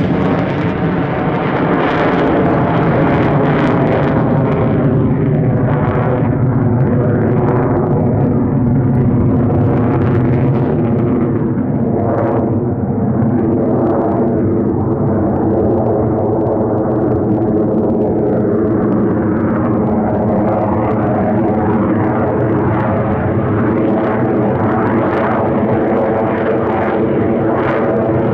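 Lockheed Martin F-35A Lightning II's single F135 afterburning turbofan, loud and continuous as the jet flies its display routine. The tone sweeps up and down repeatedly as the aircraft moves across the sky.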